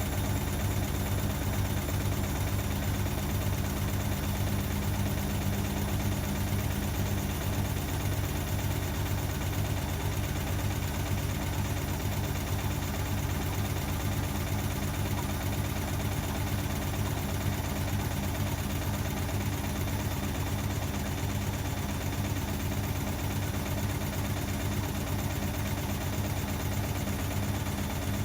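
Hotpoint WMA30 washing machine running an unbalanced spin, with the load out of balance in the drum: a steady motor hum with a regular low throb.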